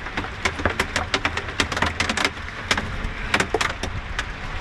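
Hailstones striking the ground, nearby surfaces and the person filming: many sharp, irregular clicks and knocks over a low steady rumble.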